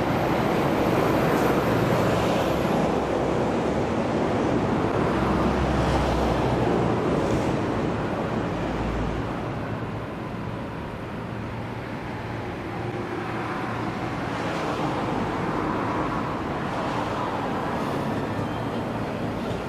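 Steady urban traffic noise, a rumbling hum that is louder for the first several seconds, eases off midway, then swells again.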